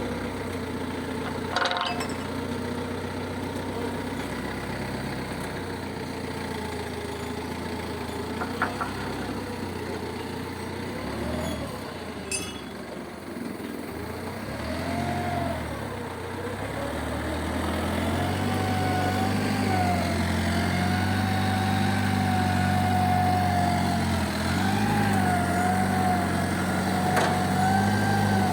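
A heavy vehicle's engine running. A few knocks sound in the first half. From about halfway through the engine takes on load and gets louder, with a wavering whine over the hum.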